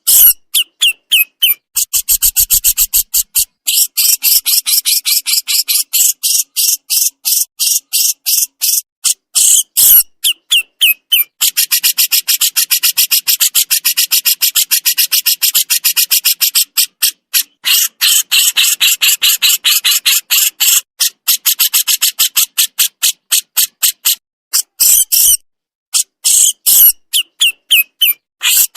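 Burung jenggot jawa songbird singing 'besetan', rapid dry rattling runs of sharp, high, clicking notes, repeated many times a second. It comes in long bursts broken by short pauses, densest and most continuous through the middle.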